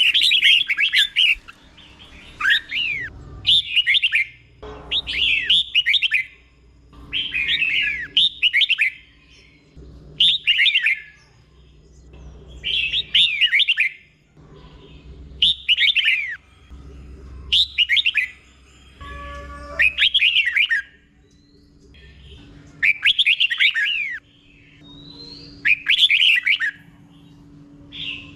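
Red-whiskered bulbul singing, repeating a short phrase every two seconds or so, each a quick run of falling whistled notes, in the doubled ("เบิ้ล") style prized in caged song birds.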